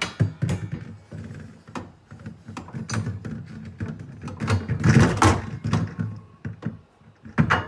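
Clicks, knocks and rattling of refrigerator parts being handled and fitted back into place, busiest in the middle, with a sharp knock near the end.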